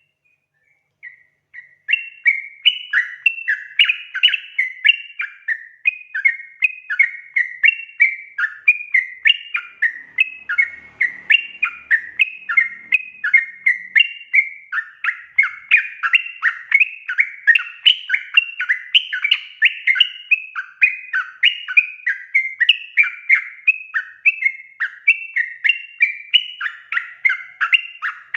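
Yellow-vented bulbul (trucukan) in full song: a fast, unbroken run of short chattering notes, starting about two seconds in.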